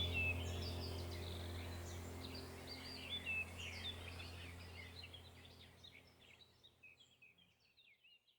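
Birds chirping and singing in quick, overlapping short calls over a low steady drone, the whole fading out gradually to silence.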